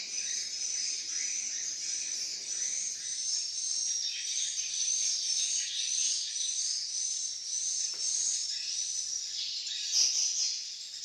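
Edible-nest swiftlets twittering: a dense, continuous high chatter of rapid chirps.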